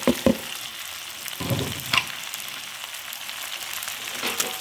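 Pre-boiled chicken sizzling as it fries in a pot with a little oil and spices, a steady hiss. A few sharp clicks at the start and a duller knock and click around one and a half to two seconds in, from stirring against the pot.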